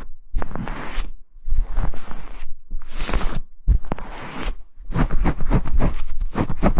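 Repeated brushing and scrubbing strokes rubbing across a binaural ASMR microphone, slow sweeping swishes at first, then quicker strokes at about four or five a second from around five seconds in.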